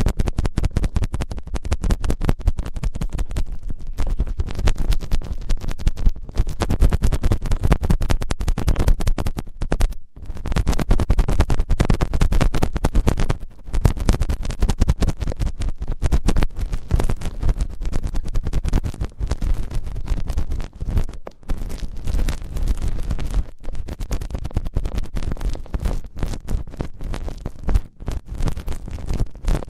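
ASMR ear-cleaning sounds: dense, rapid scratching and rubbing right at a microphone, going on continuously with a few brief pauses.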